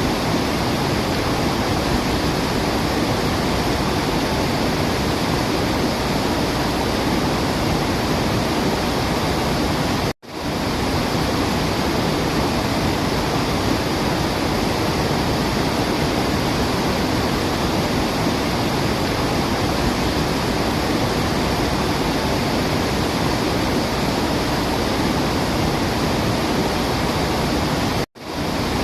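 Waterfall: a steady rush of falling water that cuts out abruptly twice, about ten seconds in and near the end, then fades straight back in.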